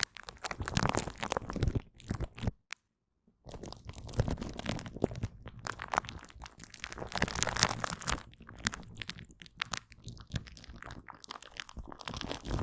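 Aloe vera gel wiped and squished close to the microphone: dense, irregular sticky wet crackles and clicks. It breaks off for about a second around three seconds in.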